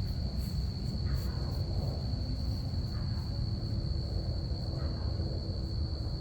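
Crickets chirping in a steady high trill over a continuous low rumble.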